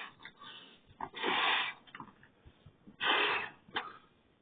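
A person breathing heavily: two long, noisy breaths about two seconds apart, with small clicks between them.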